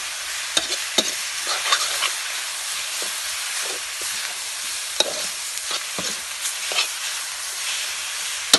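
Chopped chicken sizzling in oil in a wok as it is stirred with a metal spoon, a steady high hiss with scattered sharp clicks, the loudest near the end.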